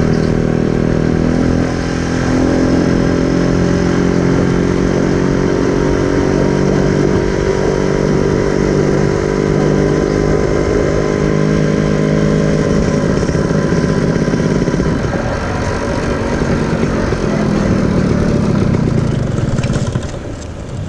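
Motorcycle engine running under way with a steady engine note, easing off and falling away near the end.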